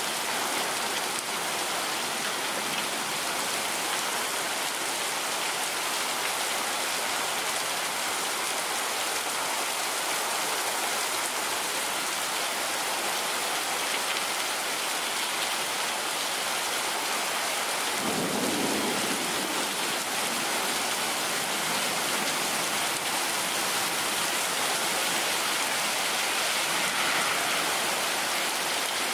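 Heavy rain pouring down steadily on a paved driveway in a downpour, with a brief low rumble of thunder about two-thirds of the way through.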